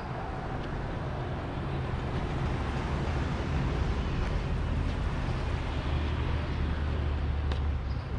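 A vehicle engine running with a steady low rumble, getting a little louder over the first few seconds and holding steady after that.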